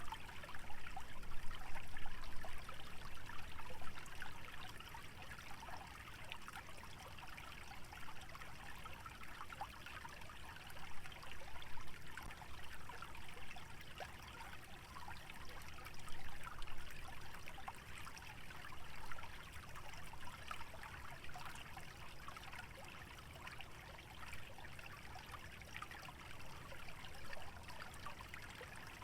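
Small stream trickling over shallow water, a continuous fine splashing and babbling, a little louder in the first few seconds.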